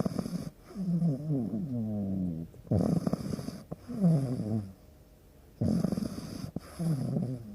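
An animal making three long snoring-like sounds, each sliding down in pitch.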